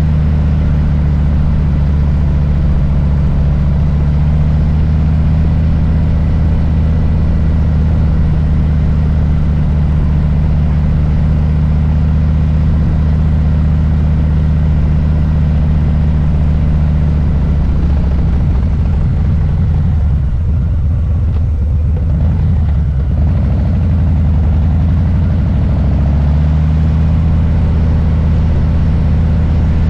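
Harley-Davidson Low Rider S's Milwaukee-Eight V-twin engine idling steadily. From about two-thirds of the way through the engine note breaks up and changes pitch, then settles back into a steady idle near the end.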